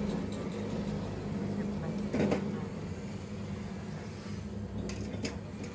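Steady low engine hum, with a few short knocks about two seconds in and near the end.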